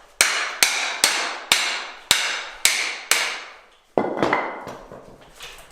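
Hammer blows on a bicycle's headset, knocking parts out of the frame during a fork swap: seven sharp strikes about half a second apart, each ringing briefly. After about four seconds come softer knocks and rattling.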